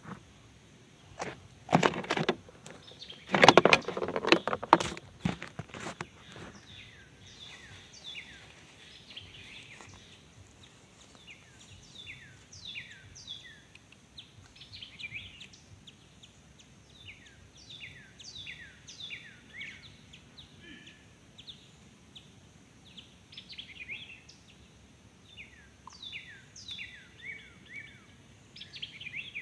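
Loud rustling and bumps for the first few seconds, then birds calling: many quick chirps that slide down in pitch, repeated in short runs through the rest.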